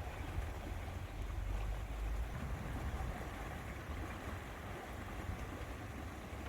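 Lakeside outdoor ambience: wind rumbling and buffeting on the microphone over a steady, even rush of noise, with no single event standing out.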